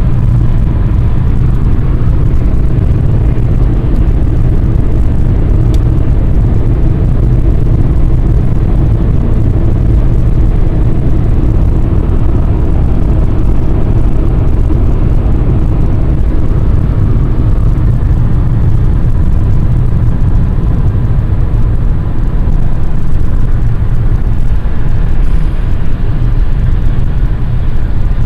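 Flooding river's rushing water, a loud steady low rumble.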